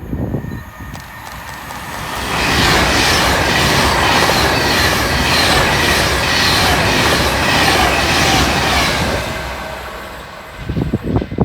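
A train passing at speed, building up over a couple of seconds, running loud with a steady rhythm of wheels clicking over the rails, then fading away near the end.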